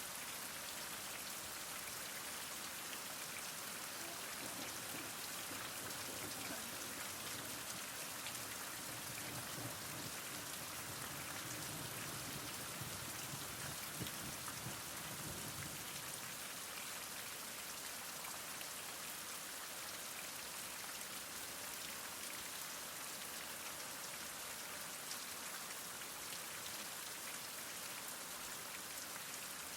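Heavy rain falling steadily, an even hiss of drops with a faint patter on surfaces.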